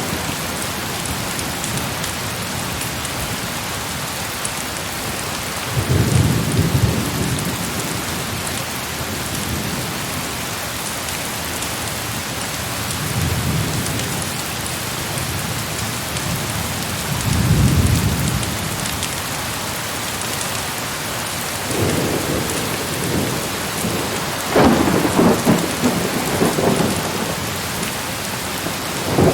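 Heavy rain falling steadily, with about five low rolls of thunder swelling and fading. The loudest and sharpest roll comes near the end.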